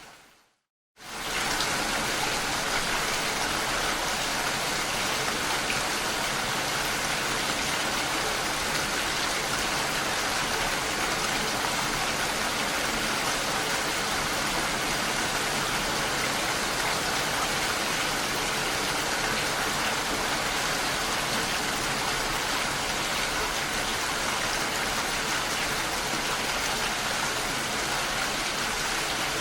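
Steady rain falling, a dense even hiss. It starts from a second of silence at the very beginning, swells back in and then holds steady.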